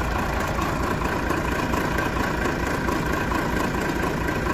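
Manitou telehandler's diesel engine idling steadily with a low, even pulse, run so the rebuilt brakes can be bled.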